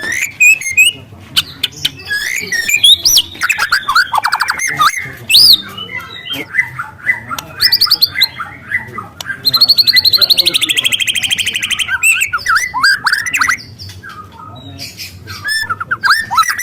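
Juvenile white-rumped shama singing loudly: a varied run of whistled and sliding notes broken by fast trills. The longest is a rapid canary-like trill of evenly repeated notes about ten seconds in that lasts over two seconds.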